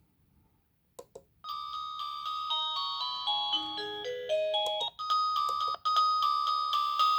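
Phone ringtone starting after two short clicks: a melody of stepped notes falling in pitch, phrase after phrase, with a vibration noise during the ringing that the owner points to as a fault.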